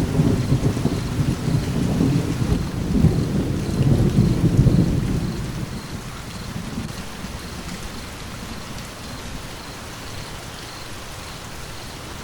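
Steady rain with a low roll of thunder that rumbles for the first few seconds and fades away about halfway through, leaving the even hiss of the rain.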